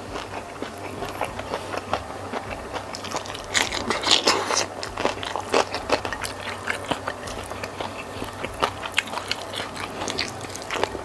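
Close-miked chewing and wet mouth sounds of a person eating rice and spicy squid by hand, with fingers scraping food off a plate: a steady stream of small clicks and crackles, busiest a few seconds in.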